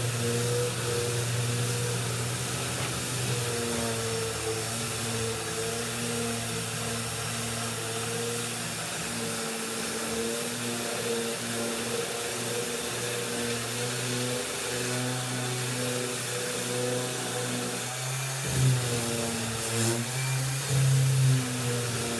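Electric sander and vacuum cleaner running steadily together: a constant motor hum over a hiss, with a few brief louder bumps near the end as the sanding works the table's top layer.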